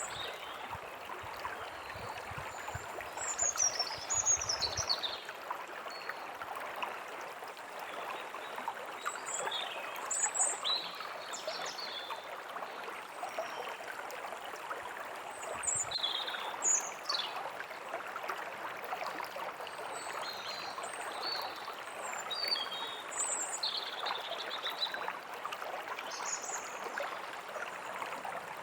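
A stream running steadily over stones, with small birds chirping and calling in short high notes throughout.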